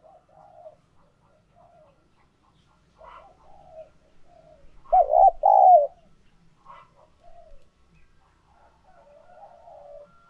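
Spotted dove cooing: soft, low coos scattered throughout, with two loud coo notes back to back about five seconds in.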